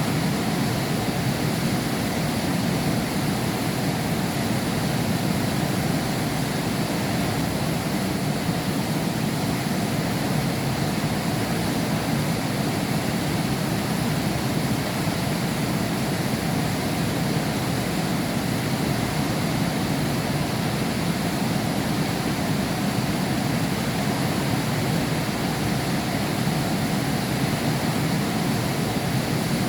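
Heavy rain falling steadily behind window glass, an even unbroken hiss and patter with no thunder.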